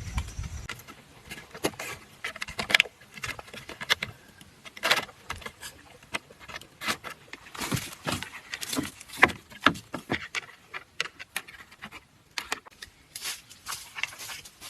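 Bamboo pieces being handled and worked by hand: light clicks and knocks that come irregularly.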